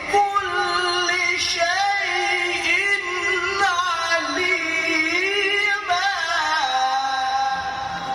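A male qari's high voice in Quranic recitation (tilawah), holding one long melodic phrase with ornamented pitch turns.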